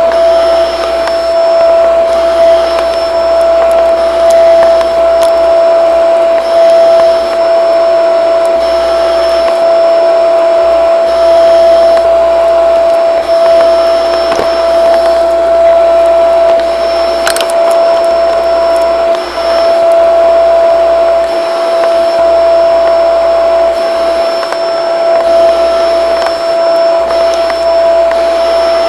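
Shark vacuum cleaner running steadily, its motor giving a constant high whine over the rush of air. There is one brief sharp click about seventeen seconds in.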